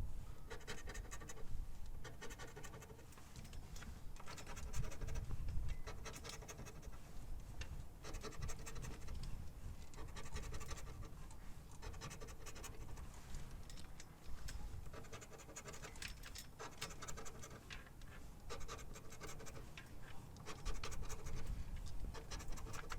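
A lottery scratch-off ticket being scratched off, a continuous run of quick, short rasping strokes as the coating is scraped away.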